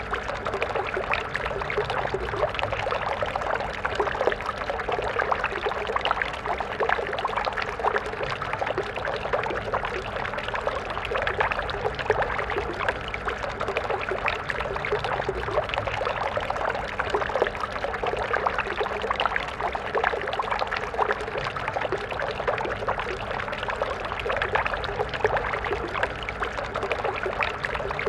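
A stream of water flowing and splashing steadily over rocks, a continuous babbling rush with fine splashes and no change in flow.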